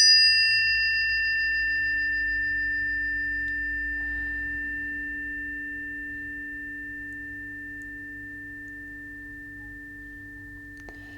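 Two planetary tuning forks for Mars and Venus are struck at the start and left ringing. Two low pure tones carry a bright higher ring above them, and the whole sound fades slowly and steadily.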